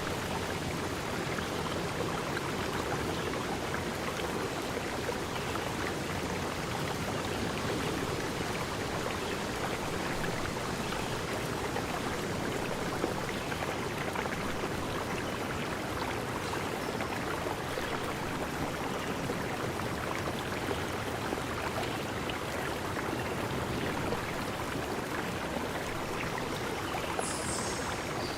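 Steady, unbroken rush of flowing stream water, with a brief high chirp near the end.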